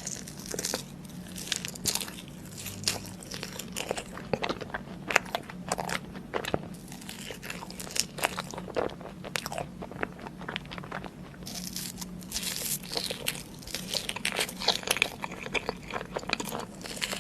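Close-miked eating of crunchy food: repeated crisp bites and chewing crunches coming several a second in an irregular run, over a faint low hum.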